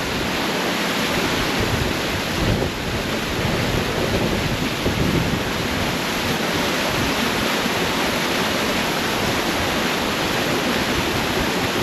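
Waterfall: water rushing and splashing down a rocky stream in a steady, even roar.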